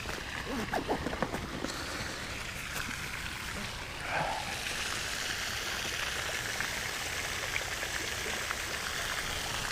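Steady trickle of running water, filling in about halfway through, with a few light clicks in the first couple of seconds.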